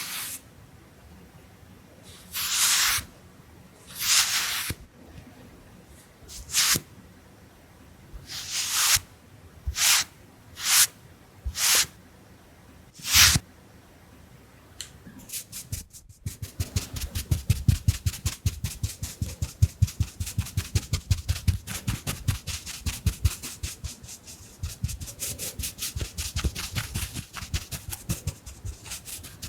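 Round makeup brush sounds. About eight separate, airy swishes come in the first half, then from about halfway a rapid, continuous dabbing of many soft taps a second.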